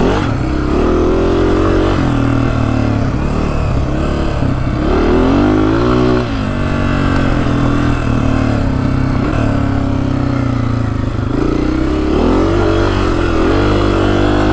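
Honda CRF250F dirt bike's single-cylinder four-stroke engine running under riding load, its revs rising and falling as the throttle is opened and rolled off. The revs drop about six seconds in and climb again near the end.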